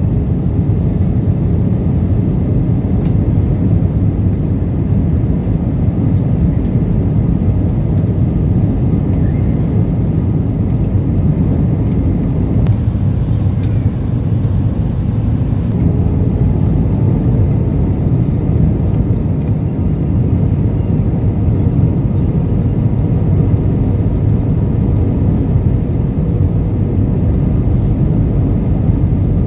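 Steady cabin noise inside an Airbus A320: an even low rumble of engines and airflow, with a few faint ticks.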